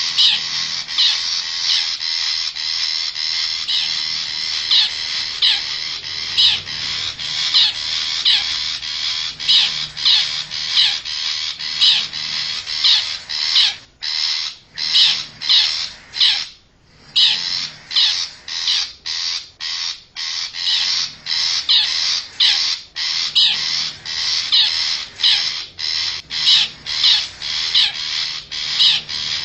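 Long-tailed shrike (cendet) calls played as a lure: short, harsh notes repeated about twice a second over a steady background of chirping, with a brief break about halfway through.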